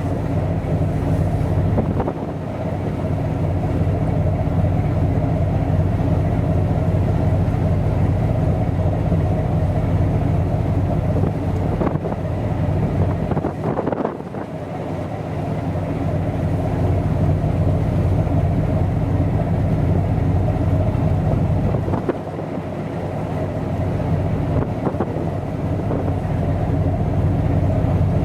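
A ship's engine drones steadily and low, with wind rushing on the microphone. The sound dips briefly three times.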